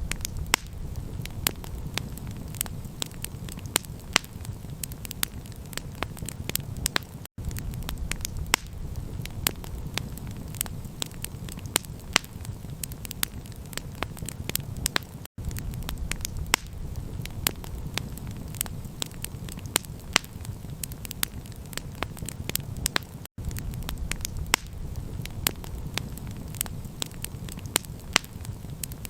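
Campfire crackling, with frequent sharp pops and snaps over a steady low rumble. The sound cuts out for an instant three times, about every eight seconds, where the recording loops.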